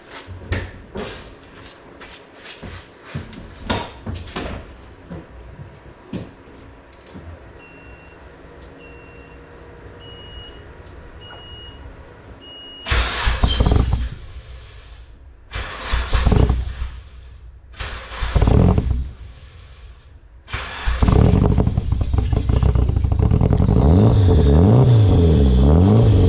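Nissan 240SX's SR20DET turbo four-cylinder being started: a run of high warning-chime beeps, then three short bursts of cranking or catching before the engine fires about 21 seconds in and keeps running loudly through the freshly completed exhaust, its pitch wavering. Light clicks and knocks come before the chime.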